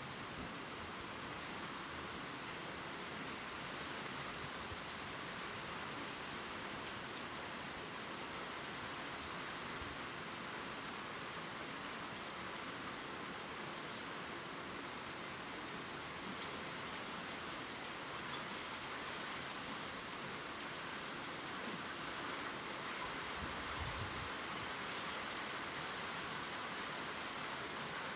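Steady gentle rain pattering on leaves, an even hiss with occasional single drops ticking.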